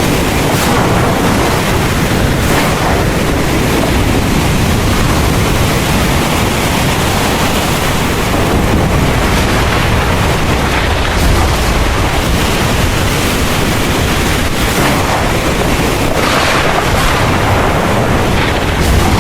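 Heavy rain pouring in a dense, steady hiss, with wind and a low rumble of thunder underneath.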